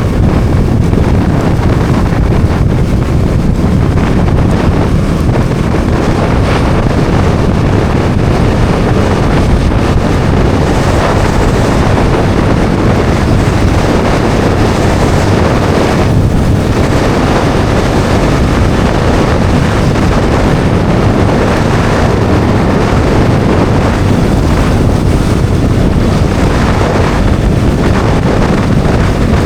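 Steady wind buffeting on the microphone at riding speed, over the Bajaj Dominar 400's single-cylinder engine running at a constant pace.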